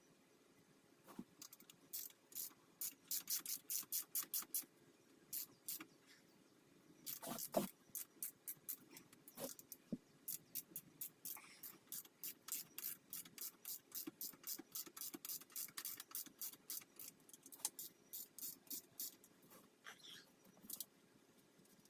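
Ratchet wrench being worked in quick back-and-forth strokes, a run of sharp clicks about three to four a second, stopping and starting again a few times.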